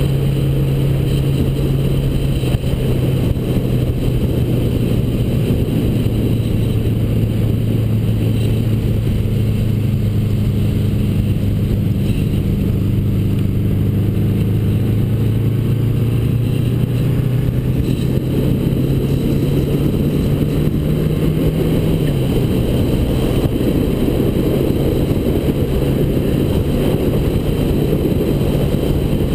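A 1979 Honda GL1000 Goldwing's flat-four engine running steadily while the bike is ridden. Its note climbs slowly for about twenty seconds, then drops suddenly about 22 seconds in, as at a gear change or when the throttle is closed.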